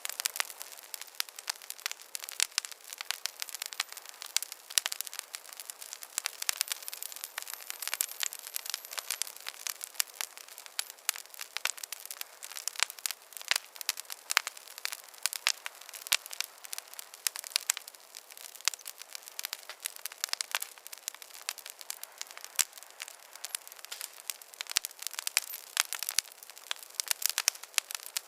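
Wood fire in a fireplace crackling, with a steady stream of irregular sharp pops and snaps and hardly any low rumble.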